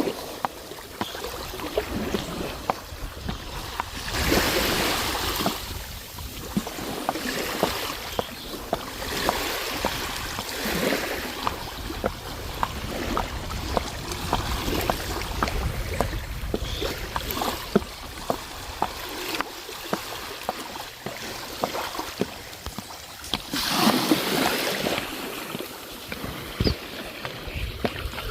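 Sea waves washing onto a sandy beach, swelling and falling back every few seconds, with wind rumbling on the microphone.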